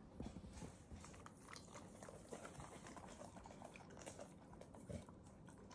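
A dog lapping carbonated water, heard as faint, irregular small clicks.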